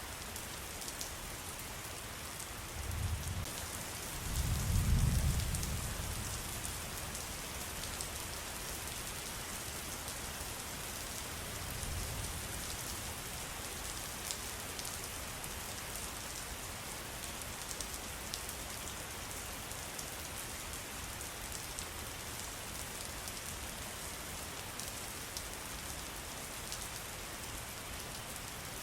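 Steady rain with scattered drop ticks, and a low rumble swelling about four to six seconds in, with a weaker one near twelve seconds.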